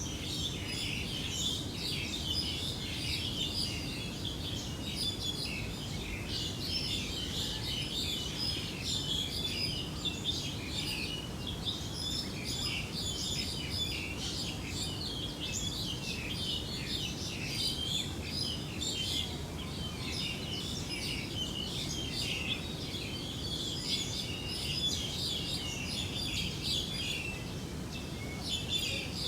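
Many small birds chirping continuously in a dense chorus, over a steady low noise.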